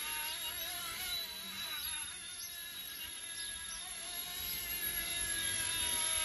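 Small electric RC helicopter's motor and rotor whine in flight, several pitched lines wavering gently as the pilot corrects in the wind. It dips slightly in the middle and grows louder near the end.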